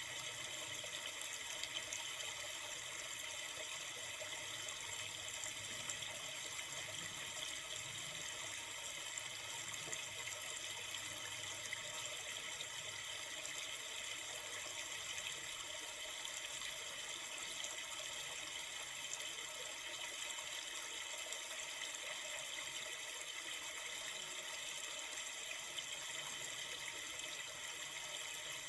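Steady rushing of a flowing river, an even wash of water noise that never breaks or changes.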